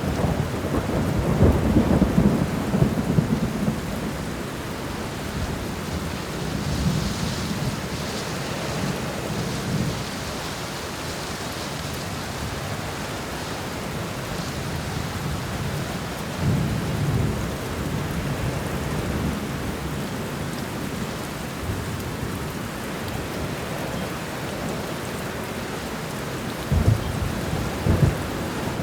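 Heavy rain falling steadily, with low rolls of thunder rumbling several times, loudest in the first few seconds and again near the end.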